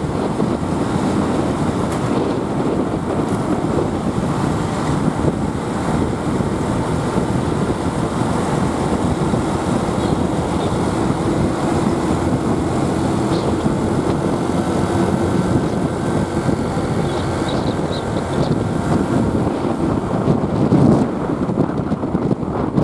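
Wind rushing over the microphone on a moving motorbike, with the motorbike's engine and surrounding traffic underneath.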